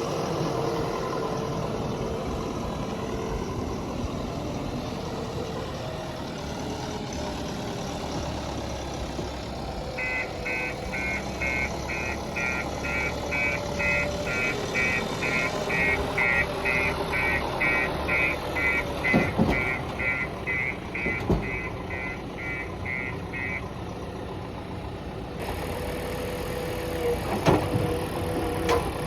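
Heavy diesel earthmoving machinery running steadily, with a reversing alarm beeping rapidly, about three beeps a second, for some thirteen seconds through the middle. A few sharp knocks come near the end.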